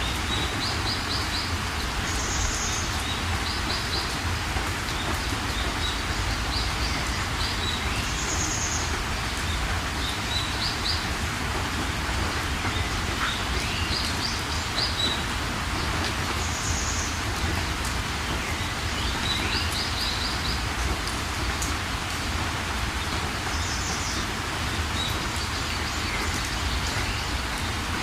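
Steady rain falling, with small birds chirping over it: short quick trills of a few notes and higher bright calls, recurring every few seconds.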